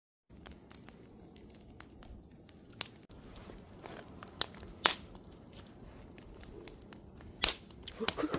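Campfire burning: a steady low crackle of burning wood with scattered sharp pops, the loudest about three, five and seven and a half seconds in.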